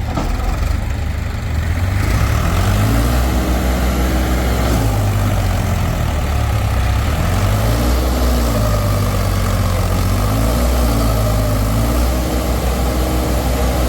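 Diesel tractor engine running heavily, revving up and falling back again several times.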